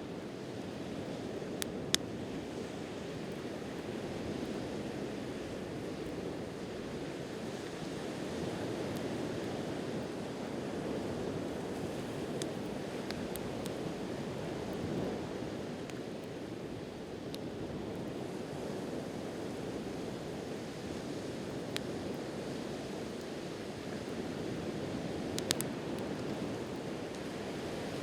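Steady wash of sea surf, with a few sharp pops and crackles from a wood campfire, the loudest about two seconds in and a pair near the end.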